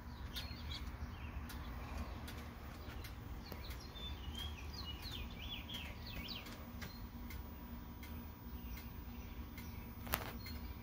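Small birds chirping in a quick run of short calls around the middle, with scattered light ticks, a sharper click near the end, and a low steady rumble.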